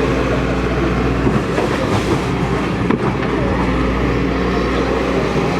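A heavy engine running steadily with a deep rumble, with one sharp knock about three seconds in.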